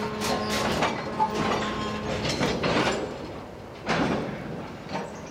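Diesel freight train moving slowly through a rail yard: irregular sharp metallic clanks and knocks of wheels and cars on the track, over a steady low locomotive hum that stops a little over two seconds in.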